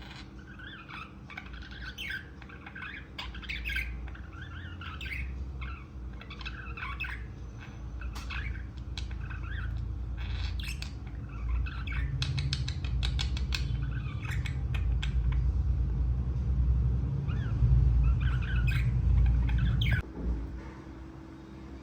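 Budgies chirping and chattering in short calls, with scattered sharp clicks, over a low rumble that grows louder and cuts off suddenly about twenty seconds in.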